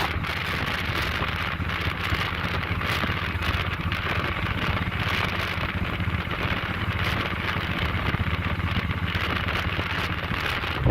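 Motorcycle on the move: a steady low engine rumble under an even hiss of wind and rushing air.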